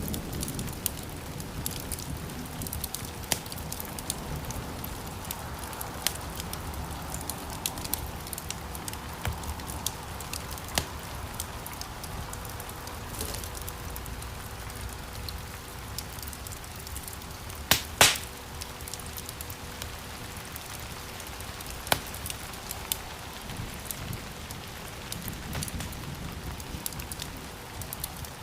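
Wood fire burning in a stone fireplace: a steady hiss with frequent small crackles and a louder double pop about eighteen seconds in.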